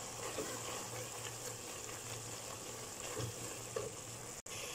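Minced mutton sizzling quietly in an aluminium pot, with a few light clicks of a wooden spatula stirring it over a faint steady hum. The sound drops out for an instant near the end.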